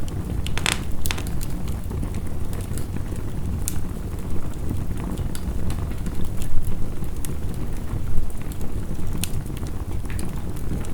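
Wood fire crackling, with sharp pops scattered throughout and a cluster of them about a second in, over a steady low rush of heavy rain.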